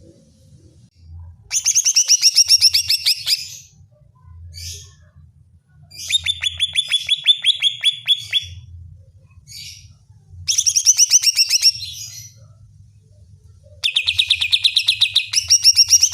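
Cucak ijo (green leafbird) singing in four loud bursts of rapid, chattering repeated notes, each burst two to three seconds long with short pauses between them.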